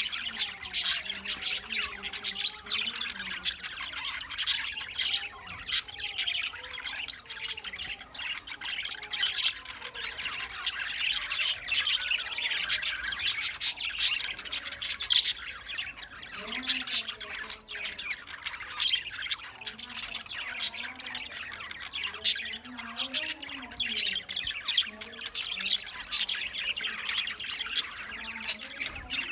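A flock of caged parrots squawking and chirping all at once: a continuous din of many overlapping sharp calls, with louder single squawks standing out now and then.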